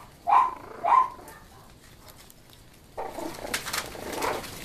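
Jack Russell terrier giving two short, sharp barks in the first second, then a rustling noise from about three seconds in.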